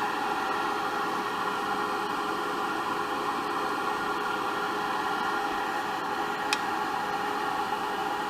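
Wood lathe running with a steady motor hum and whine while a square cutter with a radiused edge shear-cuts the spinning cedar, giving a continuous hiss. A single brief click about six and a half seconds in.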